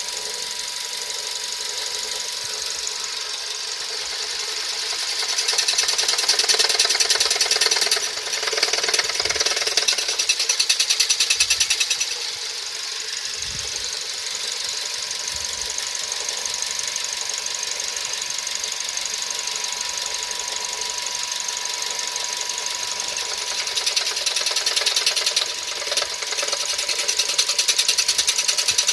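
Suzuki SX4 1.6-litre engine running with a fast, even metallic ticking clatter that grows louder for a few seconds at a time, three times. This is the unexplained strange noise the owner is asking about.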